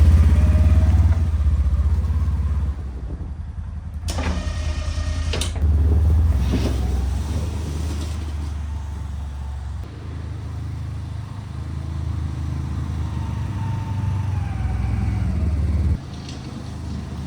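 Polaris General XP 1000 UTV's twin-cylinder engine running, its level stepping up and down several times. There are two sharp knocks about four and five and a half seconds in, and a short falling whine near the end.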